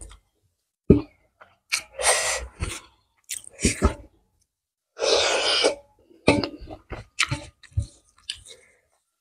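Close-up mukbang eating sounds: wet chewing with lip smacks and clicks as rice and curry are eaten by hand. Two louder breathy bursts come about two seconds in and about five seconds in.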